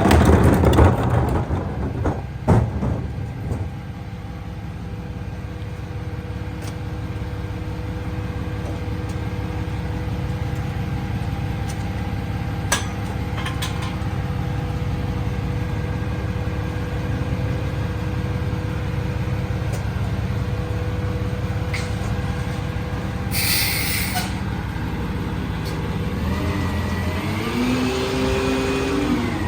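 Freightliner EconicSD garbage truck with a McNeilus rear-loader body: loud bangs and clatter in the first few seconds, then the engine and hydraulics running steadily while the packer works. A short burst of air hiss comes about two-thirds of the way in, and the engine rises in pitch near the end.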